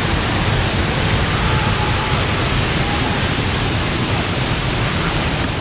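Steady, loud rushing of a waterfall cascading down over rock.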